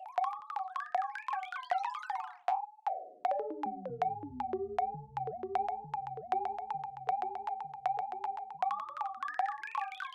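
Synthesized robot bleeps and chirps in the style of R2-D2: a fast string of short blips that bend in pitch around one note, with a rising sweep about two and a half seconds in and a lower stepping warble underneath from about four to nine seconds.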